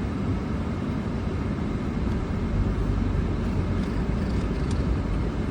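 Steady noise inside a car: the air-conditioning fan blowing over a low engine and road rumble. The rumble grows stronger about halfway through.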